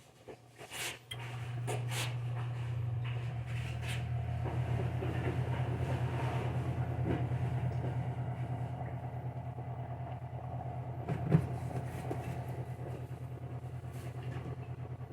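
A kitchen appliance starts up with a steady low electric hum and a fast even pulsing, after a few clicks. Occasional knocks and clatter come over it, the loudest about two-thirds of the way through.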